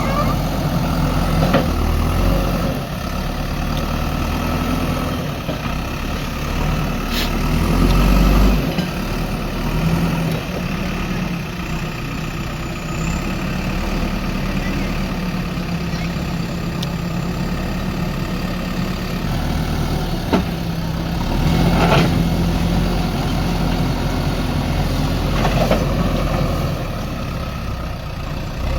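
JCB backhoe loader's diesel engine running steadily, revving up twice as the hydraulics work, with a few sharp knocks.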